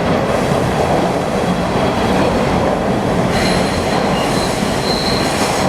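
A Bombardier T1 subway train running on the track, heard from inside the car: a steady loud rumble of wheels and running gear, with a thin high squeal joining in a little past halfway.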